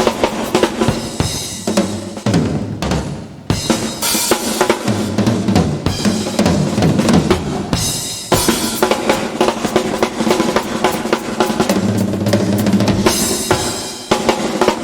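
Live country band playing an instrumental passage without vocals, the drum kit prominent with bass drum and snare hits over bass and other pitched instruments.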